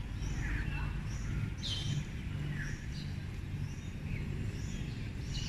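Birds chirping outdoors, a series of short, falling chirps, over a steady low background hum.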